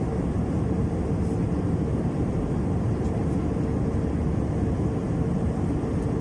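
Airbus A321-200 passenger cabin in flight: the steady noise of the jet engines and airflow, with a faint steady hum under it.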